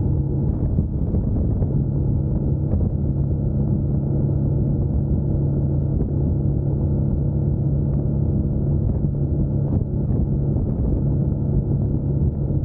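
2021 Yamaha MT-09's three-cylinder engine running while the bike is ridden, holding a steady engine speed for most of the stretch and easing briefly near the end.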